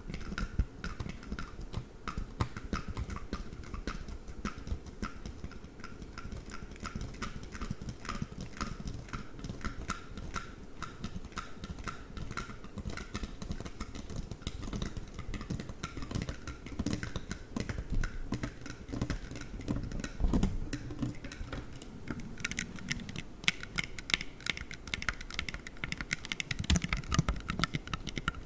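Play foam squeezed and kneaded close to the microphone: a dense crackle of many small clicks.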